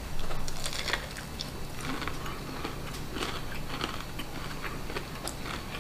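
A crunchy bite into crispy beer-battered fried ocean perch, then chewing with small crackles of the fried crust.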